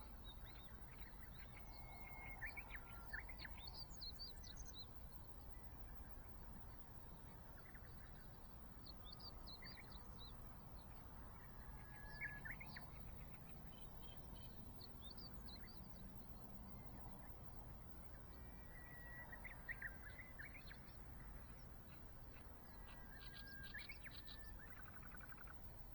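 Small birds chirping and trilling faintly in scattered bursts, about every few seconds, over a low steady rumble.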